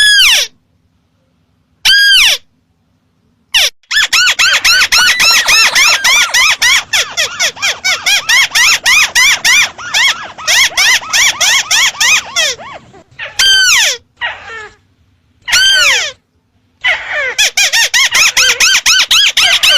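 Ruddy-breasted crake (burung tikusan merah) call used as a hunting lure. A few single sharp slurred notes come about two seconds apart, then a long fast trill of arched notes at about eight a second. The trill breaks into a few single notes about two-thirds of the way through and starts again near the end.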